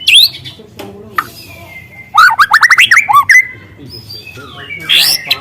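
Juvenile white-rumped shama (murai batu) singing loud whistled phrases: a short rising note at the start, a rapid run of quick sweeping whistles about two seconds in, and another loud phrase near the end.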